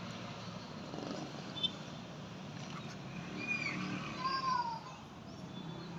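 Two short animal calls, each rising and then falling in pitch, a little after halfway through, over faint steady outdoor background noise.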